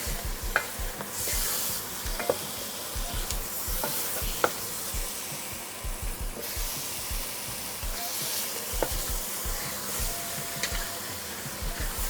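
Chicken pieces sizzling in hot peanut oil with curried onions and garlic in a pot, the hiss swelling and easing, with a utensil clicking against the pot now and then as the chicken is stirred.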